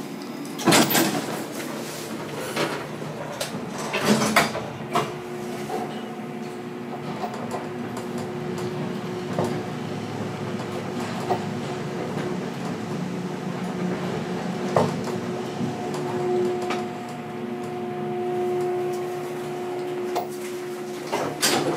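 Traction elevator car heard from inside: a couple of knocks as it sets off, then a steady hum with a second, higher tone while it travels down, with occasional clicks. The hum stops just before the end as the car arrives.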